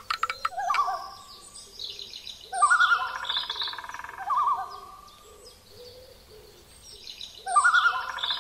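Birds calling: a wavering, trilling call with higher chirps above it, in phrases that come three times. The second and third phrases are nearly the same.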